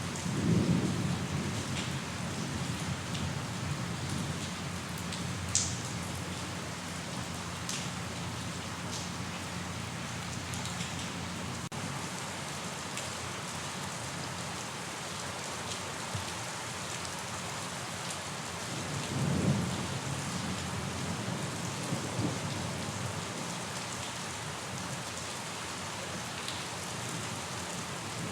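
Steady rain falling, a dense even hiss, with a few brief low rumbles of about a second each, one at the very start and two around two-thirds of the way through.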